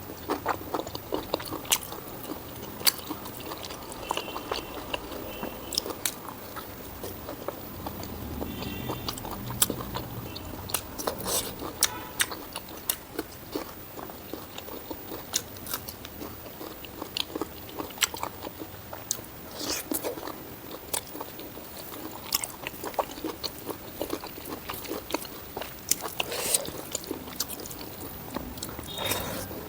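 Close-miked eating sounds: a person biting and chewing spicy pork ribs with rice, with wet mouth clicks and crunchy bites repeating irregularly.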